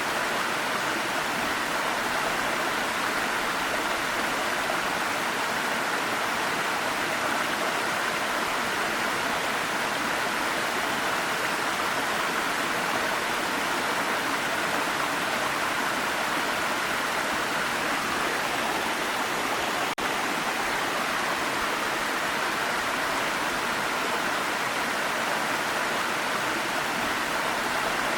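Waterfall, a steady, even rush of falling water with no let-up, briefly dipping for an instant about twenty seconds in.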